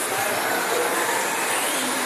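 Several electric short-course RC trucks racing, their brushless motors whining and gliding up and down in pitch over a steady hiss.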